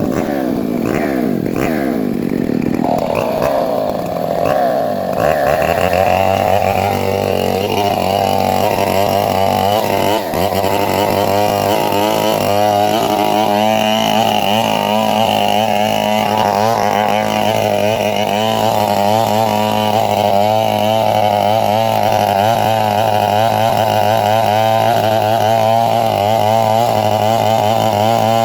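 Two-stroke chainsaw running hard while cutting a coconut palm trunk. Its pitch sweeps about over the first few seconds, then settles into a steady run with a quick, continual waver as the load on the chain changes.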